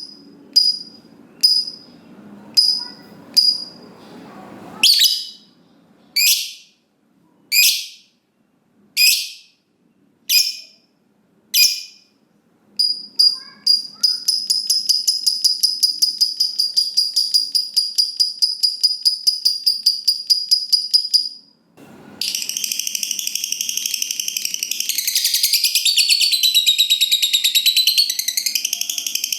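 Lovebird calling: sharp high chirps repeated about every second or so, then a long, very rapid trill of about eight seconds, the drawn-out chattering that keepers call ngekek panjang. After a brief break about three-quarters of the way in, dense continuous high-pitched chattering follows.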